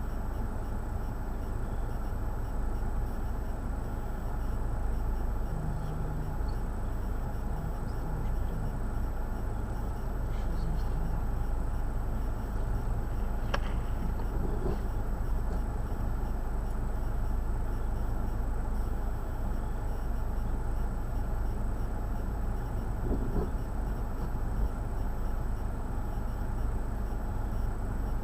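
Steady low outdoor rumble with no clear single source, with one sharp click about halfway through.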